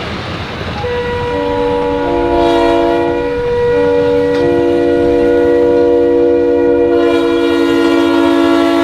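Diesel locomotive's multi-note air horn sounding a chord in two long blasts: the first starts about a second in with its notes coming in one after another and breaks off about three and a half seconds in, then a second blast begins almost at once and holds to the end, over the rumble of the passing train.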